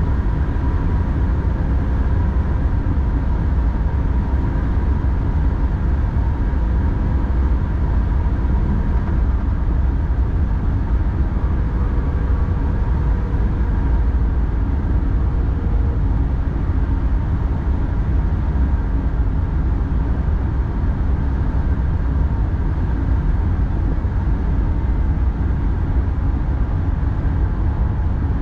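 X40 double-deck electric multiple unit running at line speed, heard from the driver's cab: a steady low rumble of the wheels and running gear with a few faint steady tones above it.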